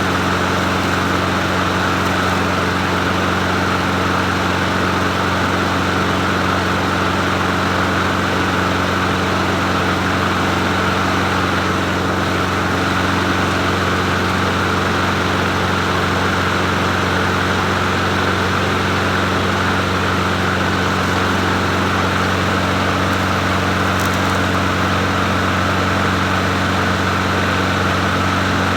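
A 22-inch Bolens push mower's small single-cylinder engine running steadily with the idle turned up.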